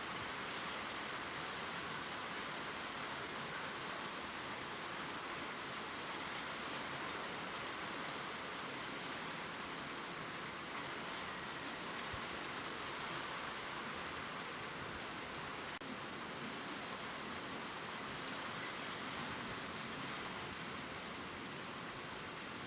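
Steady gentle rain falling on leaves, an even hiss with faint scattered drop ticks.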